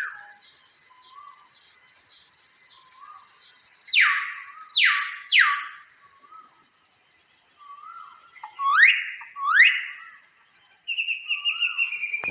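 Wild birds calling over a steady high insect drone. A short call repeats about every second and a half. Three loud falling whistles come about four seconds in, two loud rising whistles about nine seconds in, and a descending trill near the end.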